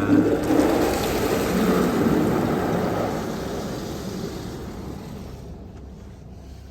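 Touchless automatic car wash spraying water over the car, heard from inside the cabin. A rushing hiss of spray on the body and glass swells right at the start, then fades over the next few seconds as the moving wash arm passes.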